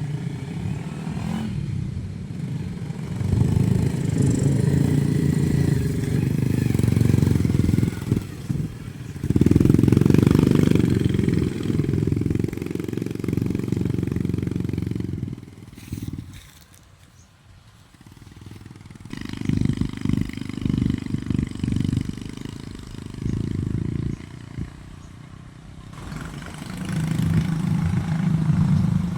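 Motorcycle engine running and pulling, its level rising and falling repeatedly, dropping away for a couple of seconds a little past halfway before picking up again.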